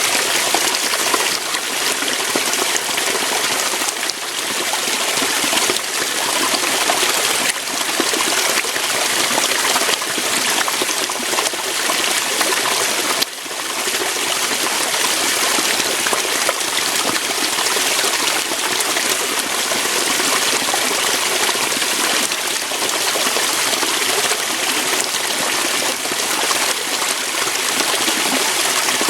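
Water flowing and splashing over rocks in a small waterfall, a steady, even rush of water with a brief dip in level about thirteen seconds in.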